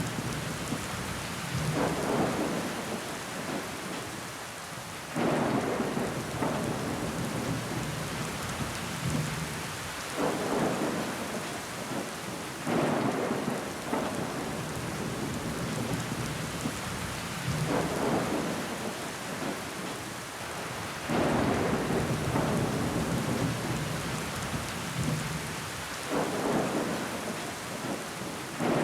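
Steady rain pattering on window glass, swelling louder for a second or two every few seconds.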